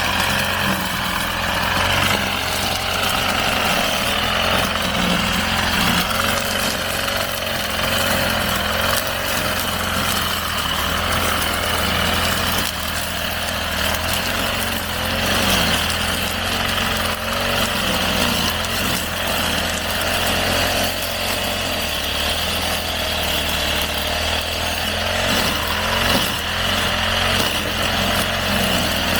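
Brush cutter engine running steadily while cutting grass, its high whine holding fairly even.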